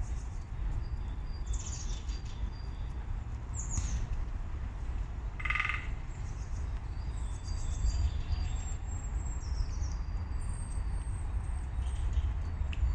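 Scattered high, thin chirps and short falling calls of small birds, with one short, lower, harsher call about five and a half seconds in, over a steady low rumble.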